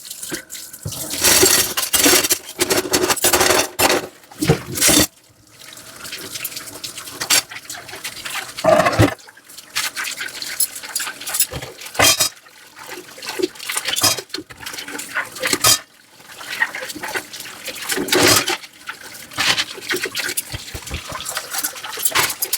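Dishwashing at a kitchen sink: running tap water and splashing, with irregular scrubbing and handling of dishes.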